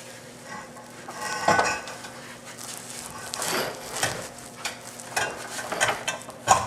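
Metal scraping and clinking as a rear subframe crossmember with its control arms is shifted and jacked into position under the car. There are several irregular scrapes and knocks, with a sharper knock near the end.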